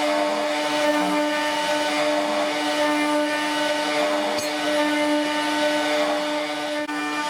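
CNC machine spindle motor running with a steady, even whine, the machine working on material. A brief click about four seconds in.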